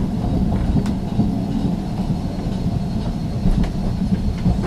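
Ex-Liverpool Corporation tram 869 running along the track: a steady low rumble with a few sharp clicks.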